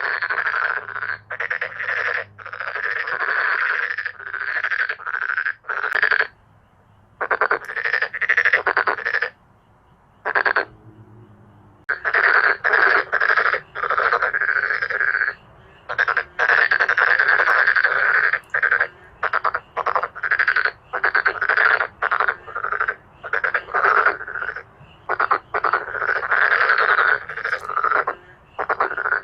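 Male dark-spotted frogs calling in a loud chorus: runs of short, rapid croaks that break off in brief pauses, the longest about ten seconds in.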